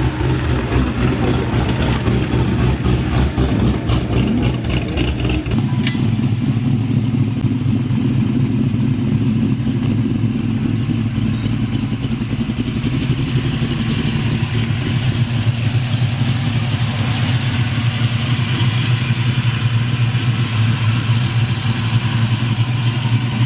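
A car's V8 engine running steadily with a deep exhaust note; about five and a half seconds in the sound changes abruptly, then the engine runs on steadily.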